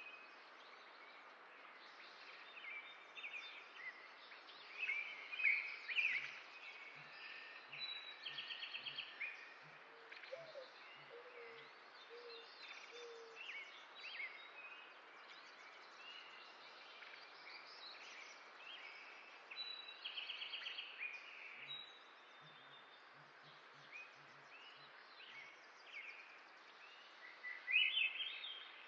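Several birds singing and calling over a steady outdoor hiss: overlapping high chirps, whistles and rapid trills, with a few low hooting notes near the middle.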